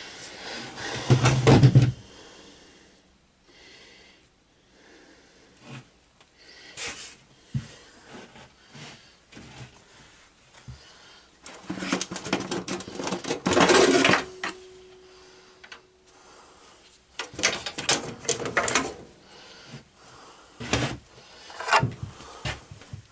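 Metal parts and tools clanking, rattling and scraping in irregular bursts of hands-on work on a lawn tractor, with quieter pauses between.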